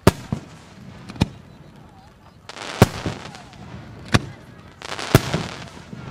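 Aerial firework shells made by Ikebun bursting in the sky: a run of about six sharp bangs, most a second or so apart, with a brief hiss around a couple of them.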